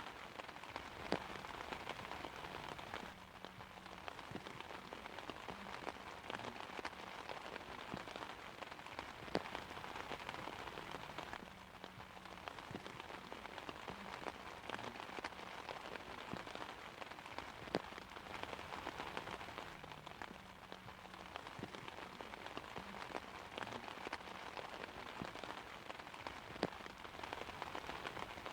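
Steady rain pattering on an umbrella, a dense even patter with scattered sharper drop hits and a few louder single drops.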